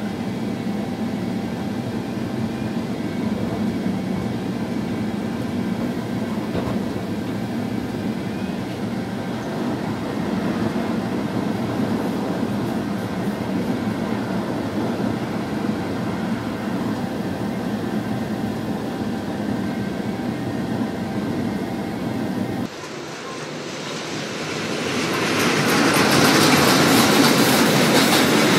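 Steady rumble of a train running along the line, heard from the driver's cab, with a few faint steady whines over it. About 23 s in it changes abruptly to a long freight train of tank wagons rolling past close by, its wheel noise growing louder.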